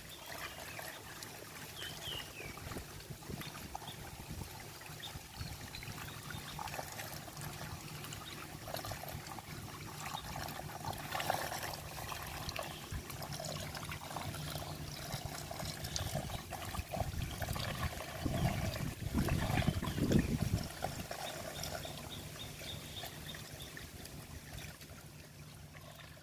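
Water trickling and pouring steadily, with a louder stretch of splashing about eighteen to twenty seconds in.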